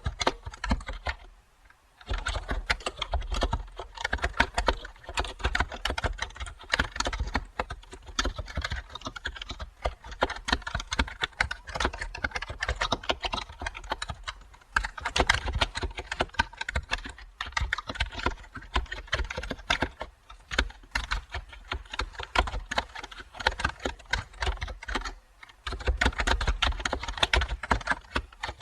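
Fast, continuous typing on a computer keyboard: a dense stream of key clicks, with a short pause about a second and a half in.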